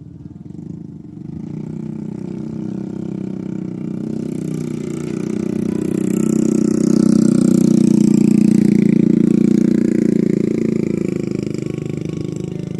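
A vehicle engine running, swelling to its loudest about seven to nine seconds in and then fading.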